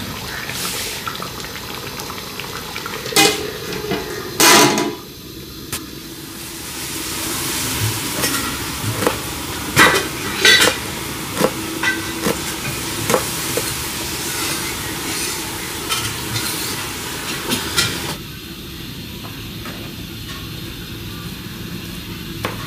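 Chicken and tomatoes sizzling in ghee in a karahi, with a spoon stirring and several sharp metal knocks against the pan.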